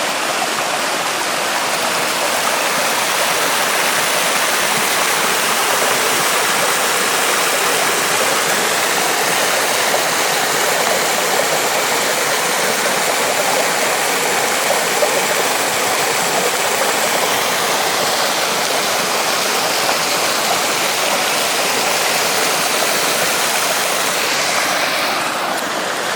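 Waterfall: water pouring down over rocks in a steady, even rush.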